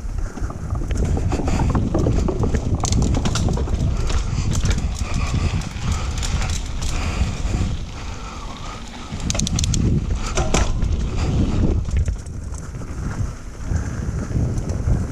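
Mountain bike descending a rough dirt trail: tyres rumbling over the ground, with frequent clatter and rattles from the bike over rocks and roots, and wind buffeting the helmet-camera microphone.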